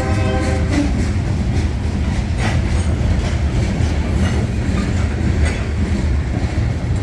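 CSX diesel work train rolling slowly through switches onto a siding: a steady locomotive rumble, with a few wheel clacks and knocks from the rail joints. A held horn note ends under a second in.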